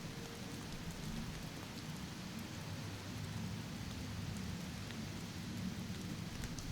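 Steady rainfall: an even hiss of rain with a low rumble beneath it and faint scattered drop ticks.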